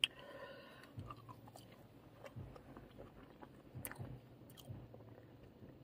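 A person faintly chewing a mouthful of chips, with a few soft scattered clicks. A short sharp sound with brief held tones comes at the very start.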